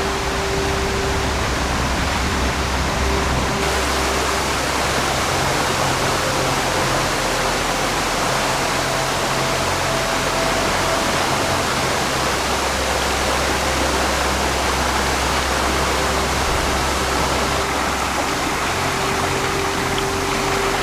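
Mountain stream rushing over rocks and small falls: a steady, full rush of water, its tone shifting slightly about four seconds in.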